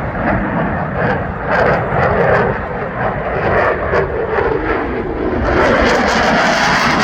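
F-16A fighter's jet engine, loud and continuous with a ragged, crackling texture, growing brighter and fuller about five and a half seconds in.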